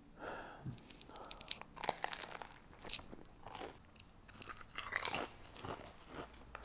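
A person biting and chewing crunchy potato chips: irregular crisp crunches, loudest about five seconds in.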